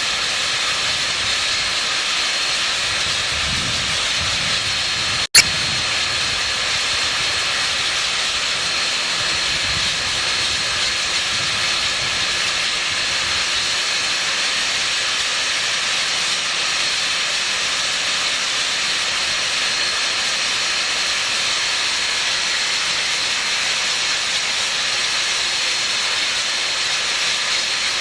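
Steady hiss of escaping steam from Union Pacific 3985, a 4-6-6-4 Challenger steam locomotive, standing with steam up. A single sharp click about five seconds in.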